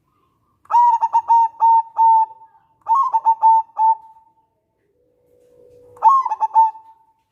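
Zebra dove (local perkutut) cooing: three phrases, each a quick run of short notes that ends in a longer held note.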